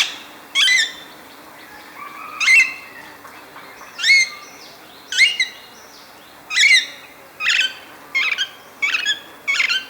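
Alexandrine parakeet giving a series of about ten short, loud, piercing screeches, irregularly spaced and closer together near the end.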